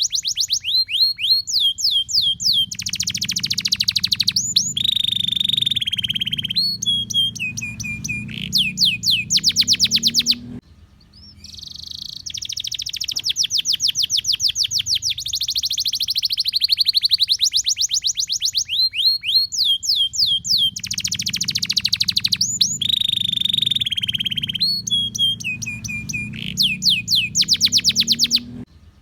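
Domestic canary singing a long, continuous song of fast trills, rolls and held whistles. The same stretch of song plays twice, each time ending in a brief break.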